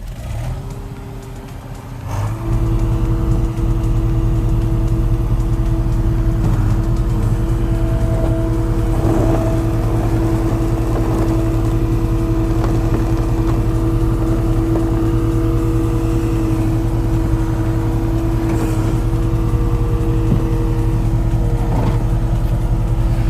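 A motor vehicle running at a steady pace with an even, unchanging drone. It grows louder about two seconds in and then holds level.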